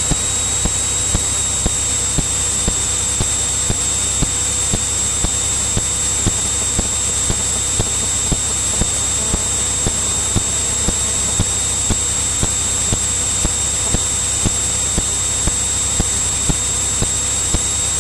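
Cirrus light aircraft cockpit noise in cruise as heard through the intercom audio feed: a steady engine drone and hiss with a thin high whine, and small clicks about once or twice a second.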